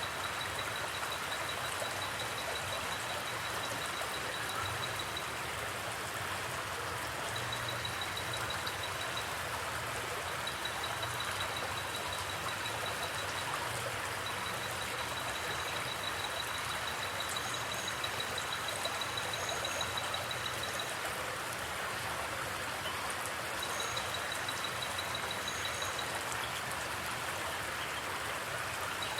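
Forest creek flowing steadily, a constant rushing water sound. A fast, high-pitched pulsing trill starts and stops in runs of a few seconds, and a few brief high double chirps sound in the second half.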